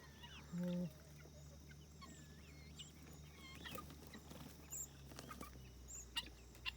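Free-range poultry calling: one short, louder cluck just under a second in, over many faint, high chirping calls.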